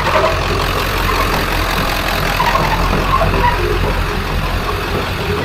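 A vehicle engine running steadily with a low drone.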